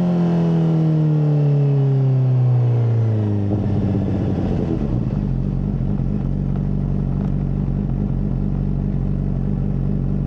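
Honda CBR600RR inline-four through a MIVV full exhaust, its revs falling smoothly for about three seconds, then settling into a steady, lumpy idle from about five seconds in.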